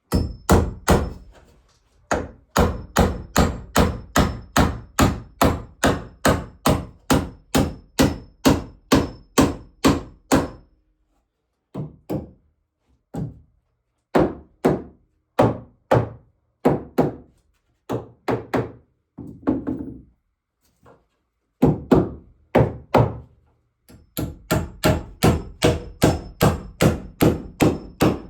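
Hammer blows on wood: a steady run of about two to three strikes a second, then a stretch of slower, scattered blows, then another fast run near the end.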